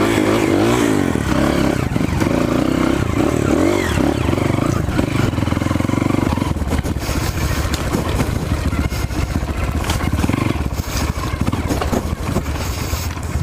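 Off-road motorcycle engine running, its revs rising and falling as it is ridden along a dirt trail, with frequent knocks and rattles in the second half.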